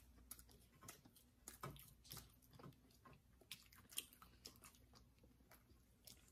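Faint chewing: soft, irregular mouth clicks and smacks of people eating fast food.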